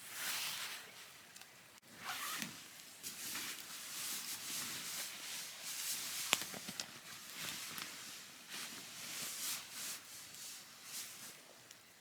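Irregular rustling and scuffing, like someone moving about and handling gear, with a sharp click about six seconds in.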